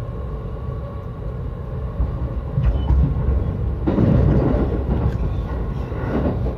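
Yokosuka Line commuter train running on the rails, heard from inside the carriage: a steady low rumble of wheels and running gear, growing louder and noisier about four seconds in.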